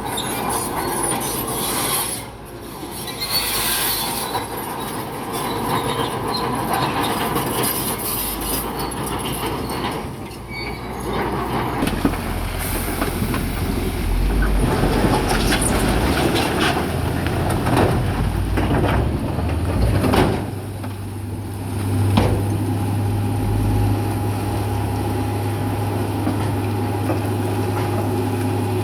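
Crawler bulldozer working, its diesel engine running while the steel tracks clank and squeal. The engine settles into a steady low drone in the second half.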